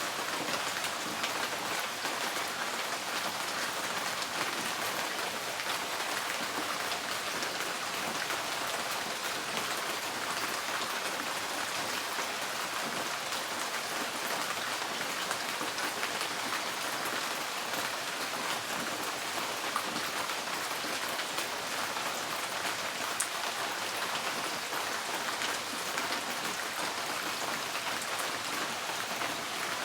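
Rain drumming steadily on a tin porch roof: a dense, even patter of many drops.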